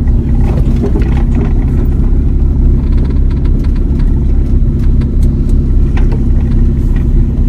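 A vehicle driving, heard from inside the cab: steady engine drone and road rumble with a low hum that holds an even pitch, and a few light clicks and rattles.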